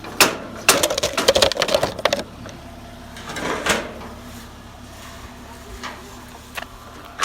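Things being loaded into a car's boot: a run of clattering, rattling knocks through the first two seconds and another brief rattle about three and a half seconds in, over a steady low hum.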